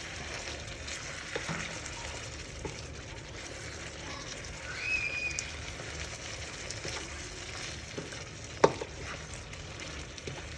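Chicken pieces sizzling in curd and turmeric in a frying pan, stirred with a wooden spatula, with soft knocks of the spatula against the pan and one sharper knock near the end.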